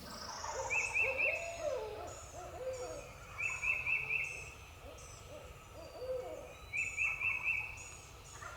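An owl hooting in two phrases of bending notes, with other birds' quick high chirps and short trills repeating around it.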